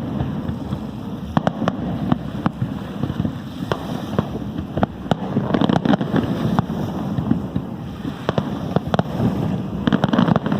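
Fireworks display: aerial shells bursting in an irregular series of sharp bangs and crackles over steady background noise, with a denser, louder cluster about halfway through and another near the end.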